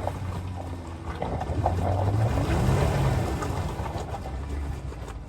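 Off-road vehicle engine working under load: it revs up from about a second and a half in, peaks around three seconds, then eases back, over a steady hiss.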